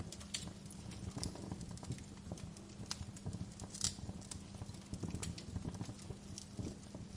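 Wood fire crackling in a fireplace: irregular sharp pops and snaps, a louder pop about four seconds in, over a steady low rumble.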